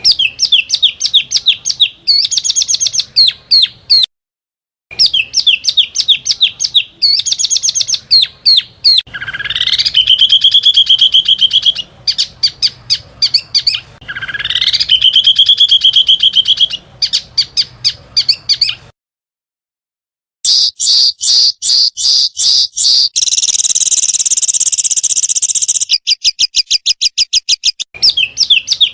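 Small songbirds' rapid-fire 'tembakan' calls, edited together for bird training: fast runs of sharp high chips, two rising whistles that level off into trills in the middle, and a dense buzzy trill near the end. It is broken twice by abrupt cuts to dead silence.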